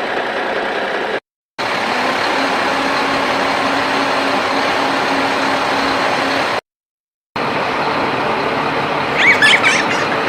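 Steady engine-like running noise, cut off abruptly twice by short dropouts to dead silence. A brief high, wavering squeak comes near the end.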